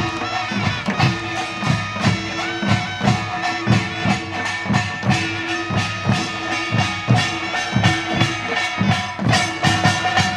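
Korean traditional folk music: held melody notes over regular percussion strokes, about two to three beats a second.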